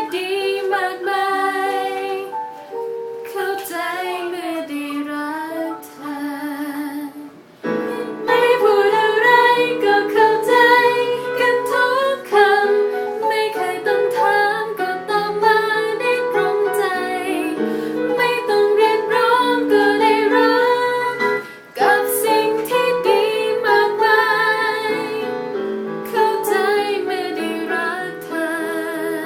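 A woman singing a melody to piano accompaniment.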